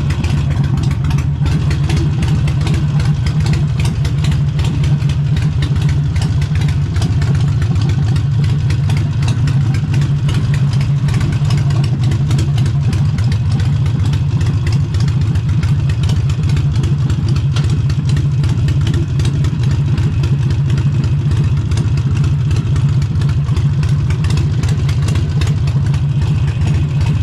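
Harley-Davidson Forty-Eight's air-cooled Sportster V-twin with an aftermarket exhaust, idling steadily with an even, loping beat.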